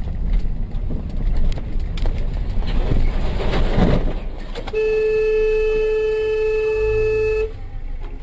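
Traffic and road rumble, then a car horn sounding in one steady blast of almost three seconds, starting about halfway through and cutting off sharply.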